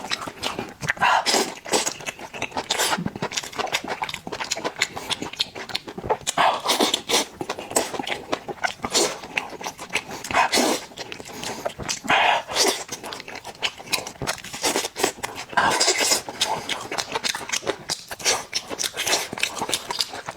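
Close-miked eating of sauce-covered fried skewers: biting and chewing, with many small clicks and a louder burst every second or two.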